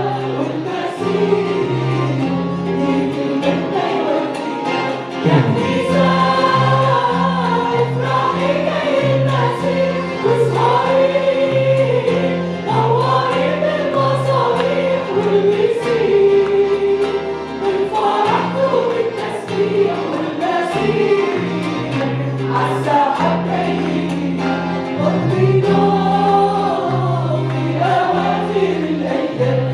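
Group of voices singing an Arabic Christian worship song together, over a bass line of held low notes that change about every half second to a second.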